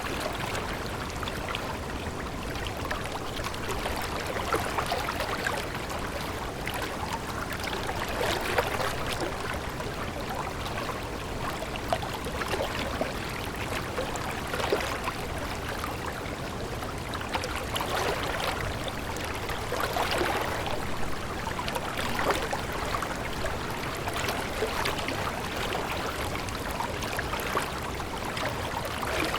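Water flowing steadily in a stream, with short irregular splashes over a continuous rush.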